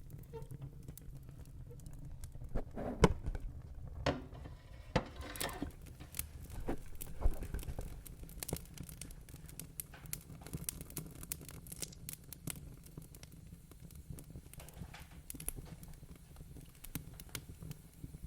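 Wood fire crackling, with scattered pops over a steady low rumble; the loudest pops come about three and seven seconds in.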